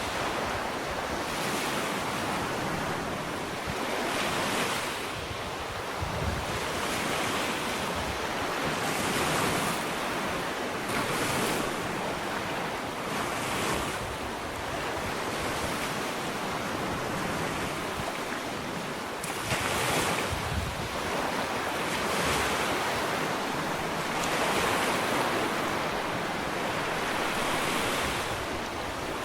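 Small ocean waves breaking and washing up a sandy shore, the surf rising and falling in a continuous wash with a stronger surge about two-thirds of the way through. Light wind noise on the microphone.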